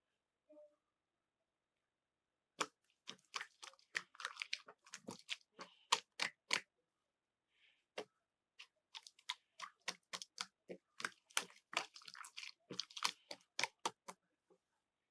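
Marbled slime being squished and pressed by hand, giving runs of quick clicky crackles as small air bubbles pop. The clicking starts about two and a half seconds in and breaks off briefly around the middle.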